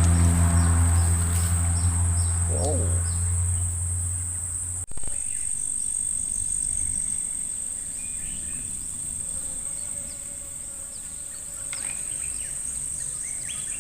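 Insects buzzing in one steady, high-pitched tone. For the first five seconds a low steady hum sounds under it and then cuts off abruptly, and short chirps come and go.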